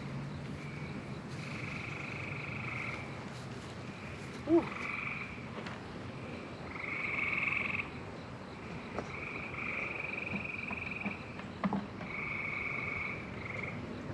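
Frogs calling in repeated trills, each lasting from about half a second to a second and a half, one following another every second or two. One short, sharp sound about four and a half seconds in is the loudest moment.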